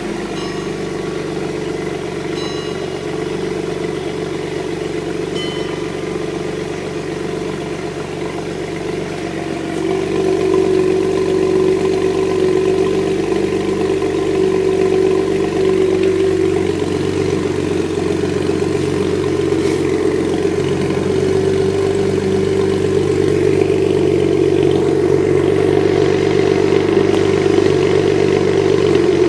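BMW Z4 E89 35i's twin-turbo 3.0-litre straight-six idling steadily after a cold start, heard through a Milltek aftermarket exhaust. It gets a little louder about ten seconds in.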